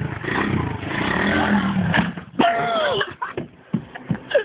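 Four-stroke single-cylinder engine of a 110cc Stomp pit bike running and revving, its pitch wavering. The engine sound drops away about two seconds in, leaving a few knocks.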